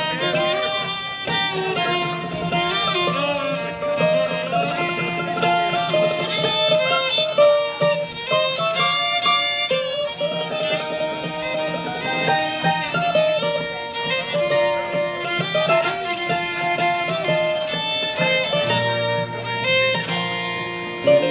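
Country band playing an instrumental intro, with a melody line moving over a steady sustained accompaniment and no singing.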